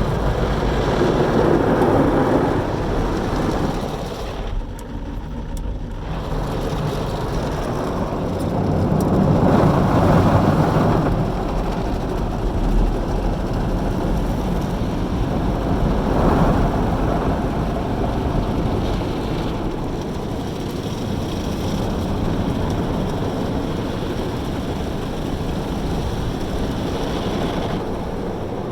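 An automatic car wash heard from inside the car: a steady rush of water spray and machinery noise that swells and fades several times, with a brief lull about five seconds in.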